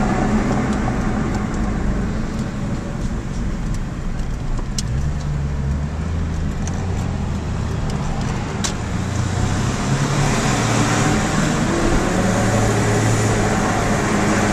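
Car engine running with road noise while driving, its note stepping up about five seconds in and again later. Two sharp clicks stand out over it.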